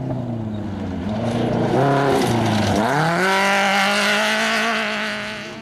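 Desert off-road race vehicle's engine passing at speed. About two seconds in it eases off briefly, then revs back up and holds a high, steady pitch, loudest in the middle, and fades near the end as it goes by.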